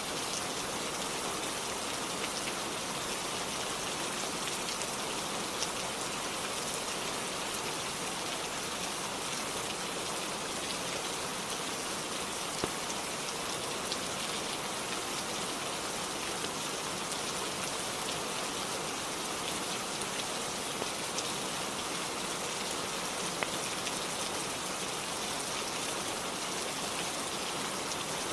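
Steady rainfall, a dense even hiss, with a few faint sharp ticks now and then.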